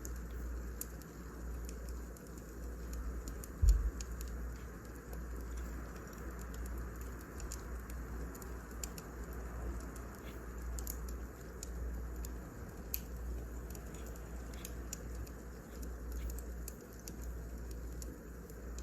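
Firewood burning, crackling with scattered sharp snaps over a steady low rumble. There is one louder low thump about four seconds in.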